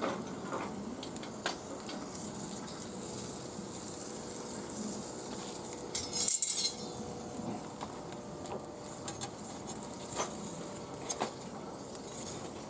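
Scattered light metallic clinks and clicks, with one louder, brief hissing rustle a little after halfway.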